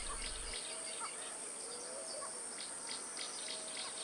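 Outdoor nature ambience: a steady high insect buzz with scattered bird chirps and a few short whistled calls.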